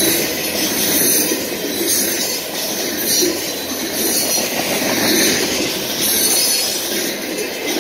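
Freight train of covered hopper cars rolling past: the steady rumble and rattle of steel wheels on the rails, with a high hiss that swells and fades every couple of seconds.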